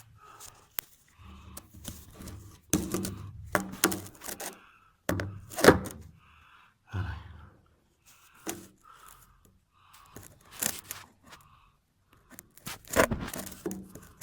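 Irregular knocks, thunks and scrapes of a phone being handled and set in place, close to the microphone, with soft rustling between them. The loudest knocks come about five and a half seconds in and again near the end.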